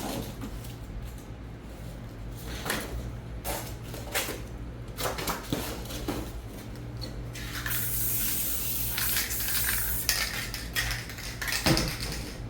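An aerosol spray-paint can sprays in a steady hiss for about three seconds in the middle, with scattered clinks and knocks before and after it, a few near the end.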